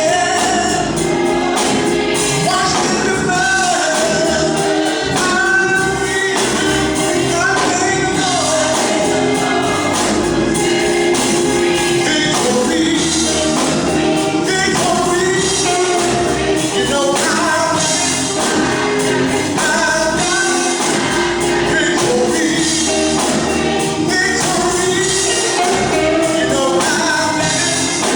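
Gospel music with a choir singing, loud and steady throughout.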